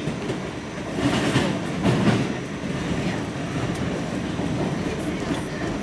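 R46 subway car running at speed, heard from on board: a steady rumble with clickety-clack from the wheels. Two louder clatters come about one and two seconds in.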